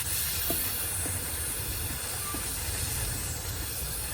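Aerosol can of chain cleaner spraying in one continuous hiss onto a motorcycle drive chain. It starts abruptly and runs steadily.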